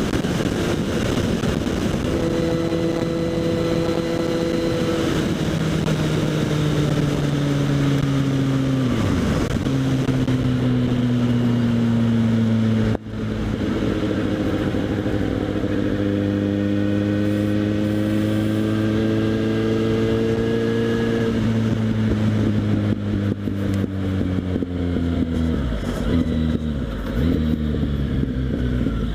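Kawasaki Z800's inline-four engine with a LeoVince SBK aftermarket exhaust, heard on the move. The engine pitch holds, then falls as the bike slows, and the sound dips sharply for a moment about halfway. The pitch then climbs again under acceleration and falls away once more, with an uneven, choppy sound near the end.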